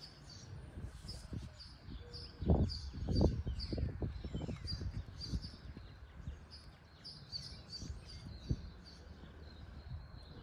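A small bird chirping over and over, short high chirps about two to three a second. A few low thuds and rustles come about two and a half to three and a half seconds in.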